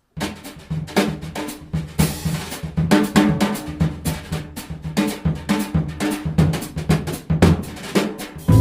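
Jazz drum kit playing an unaccompanied intro: quick snare, rimshot and bass drum strokes, with a cymbal crash ringing about two seconds in.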